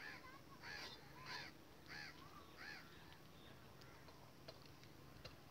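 A bird calling faintly, about five short calls in quick succession over the first three seconds, each rising and then falling in pitch.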